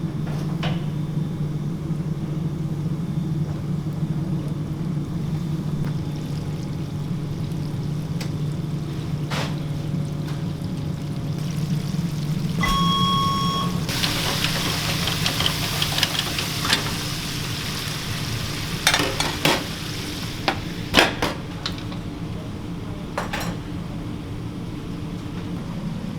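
Commercial kitchen sounds while chicken is frying: a steady low machine hum for about the first half, a short electronic beep about halfway, then a few seconds of loud sizzling hiss followed by several sharp knocks and clatters.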